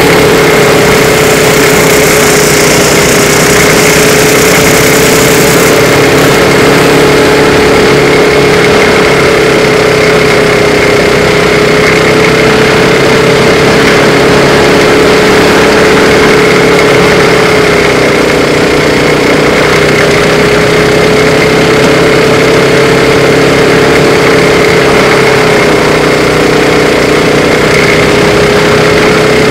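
Race car engine running at high, nearly steady revs, heard loud through an onboard microphone. Its pitch dips slightly about two-thirds of the way through and again near the end.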